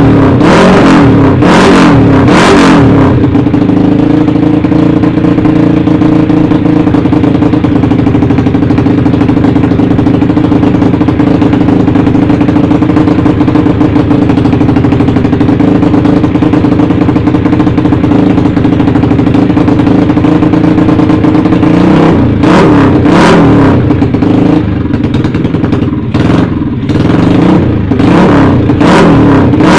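Bored-up Yamaha Jupiter motorcycle's single-cylinder four-stroke engine through a CLD Monster aftermarket exhaust, warming up. It is blipped in quick revs for the first few seconds, held at a steady raised speed for a long stretch, then blipped repeatedly again from about two-thirds of the way in.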